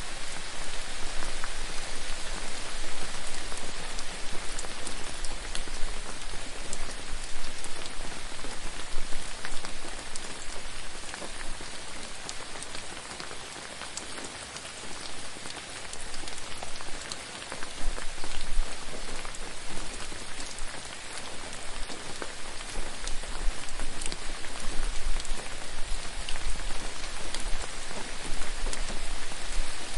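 Steady rain falling on a surface, a dense patter with many distinct drop taps, easing off somewhat in the middle and picking up again toward the end.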